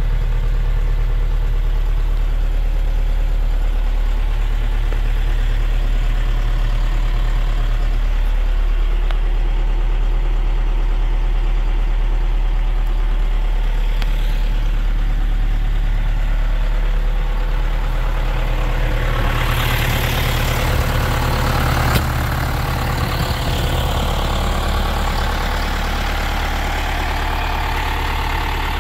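John Deere 6110 tractor's four-cylinder diesel engine idling steadily. About twenty seconds in the sound turns harsher and hissier, and there is a single click a couple of seconds later.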